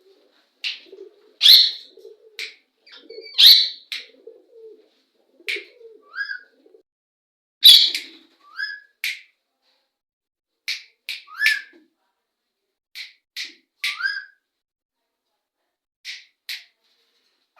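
Parrots calling back and forth: short, sharp high-pitched calls, some sliding down in pitch, coming singly or in quick pairs and threes every second or so. A quieter low-pitched call runs underneath during the first half.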